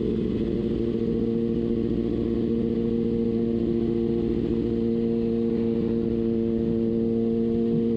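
Kawasaki Ninja ZX-6R inline-four engine running at a steady, unchanging rpm while cruising on the highway.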